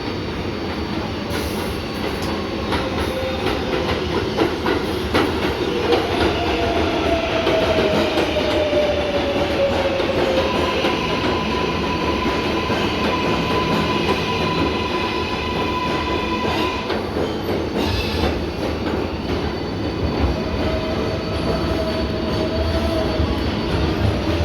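R188 subway train running on the Flushing Line with steady rumble and rail clatter. A whine falls slowly in pitch, then a steady higher whine holds for several seconds in the middle; there is a short noisy burst near the end.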